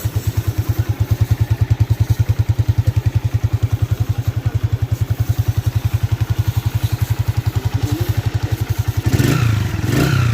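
Motorcycle engine running at idle with an even, rapid putt-putt, revved up briefly twice near the end.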